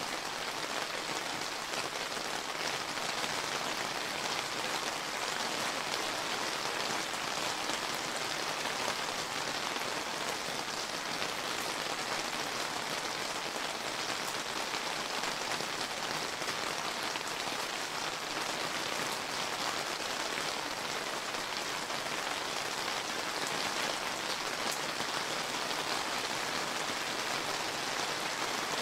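Steady summer rain falling and pattering on surfaces, an even hiss of many fine drops with no change through the stretch.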